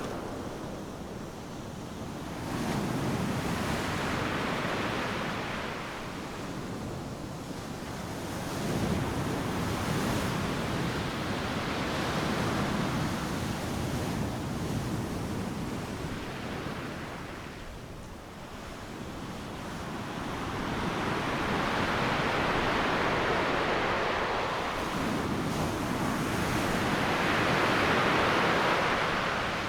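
Ocean surf breaking on a beach: a continuous rushing wash that swells and fades as successive waves crash, with the loudest surge near the end.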